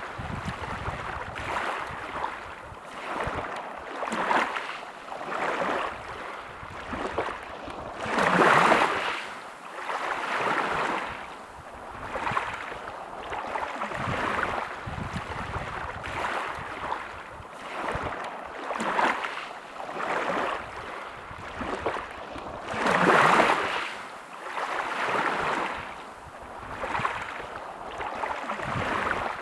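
Sea waves washing onto a beach: a rushing surf noise that swells and falls back every couple of seconds. Two bigger waves break louder, about a third of the way in and again near three quarters of the way through.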